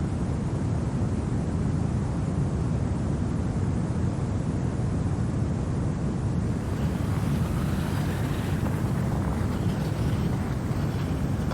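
Steady winter wind, a deep, even rush of noise with no gusts or breaks; a fainter, hissier layer joins it about seven seconds in.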